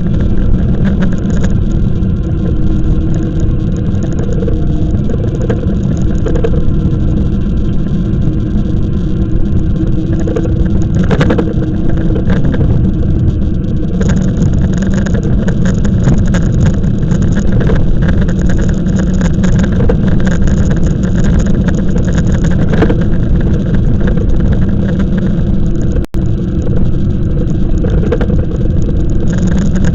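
Loud, steady wind rumble buffeting the microphone of a camera on a moving e-bike.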